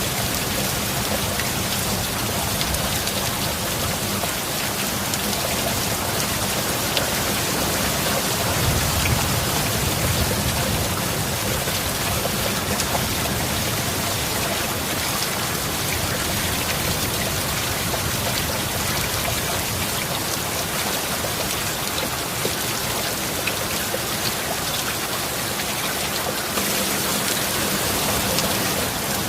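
Steady heavy rain falling on a surface, a dense even hiss with individual drops ticking through it. About a third of the way in, a brief low rumble of distant thunder swells and fades.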